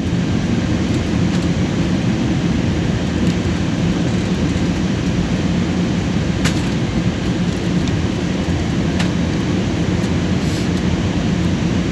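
Steady roar of a passenger airliner's engines and airflow, heard from inside the cabin, deep and even without change.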